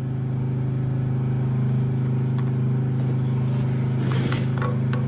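A motor or engine running steadily, with a few light metallic clicks near the end.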